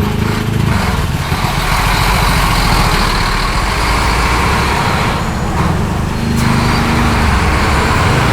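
Slow road traffic heard from a moving motorcycle: engines running in a steady low rumble, with the noise of surrounding vehicles.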